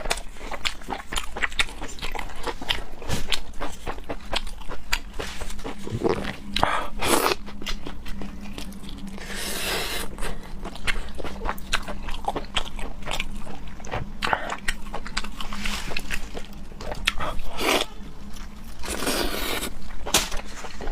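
Close-miked eating of raw seafood: chewing and biting with crunches and many sharp mouth clicks and smacks, and two longer rushing sounds, about halfway and near the end.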